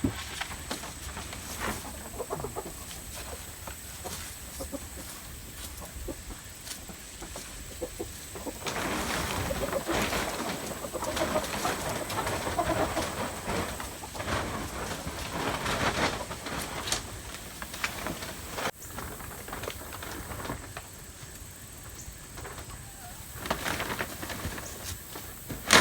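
Chickens clucking, the calls bunched in the middle of the stretch, with scattered clicks around them.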